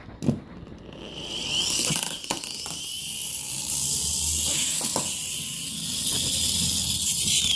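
A toy being driven along the door of a refrigerator: a steady high hiss from about a second in, with a few light knocks.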